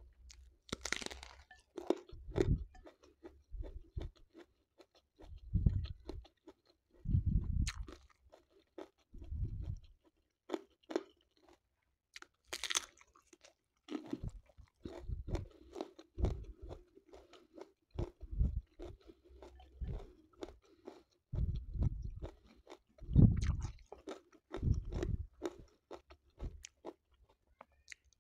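Close-miked chewing and crunching of a person eating rice and side dishes by hand, in irregular bites with soft low thuds between the crisp clicks.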